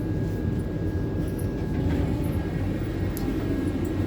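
Steady low rumble of a moving Vande Bharat Express electric train heard inside the passenger coach, with a thin steady high tone and a few faint light clicks over it.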